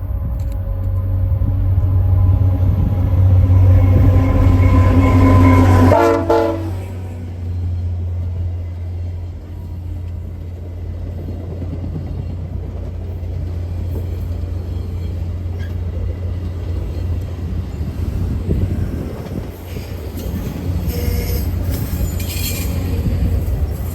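Locomotive air horn sounding a sustained multi-tone chord over a heavy engine rumble. The horn cuts off about six seconds in with a brief drop in pitch, and the steady rumble of the passing train continues.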